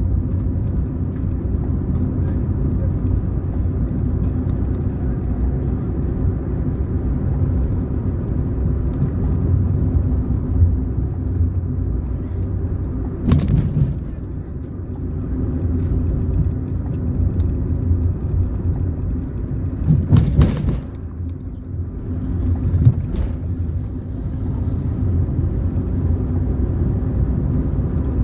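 Car driving along a road: a steady low rumble of engine and tyres, with a few short sharp louder noises about halfway through and again around two-thirds of the way in.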